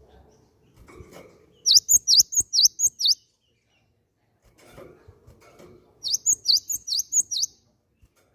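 Cinereous tit (gelatik batu) singing two quick phrases of repeated sharp, high whistled notes, about five notes a second, each phrase lasting about a second and a half.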